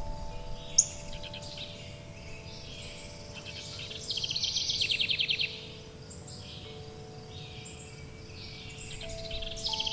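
Songbirds singing fast trills and chirps, loudest about four seconds in, over the long ringing tones of wind chimes at a few different pitches and a low steady background noise. A single sharp click comes about a second in.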